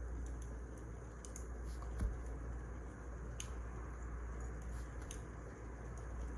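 Wood fire crackling in a fireplace: a low steady rumble and hiss with scattered faint pops and snaps.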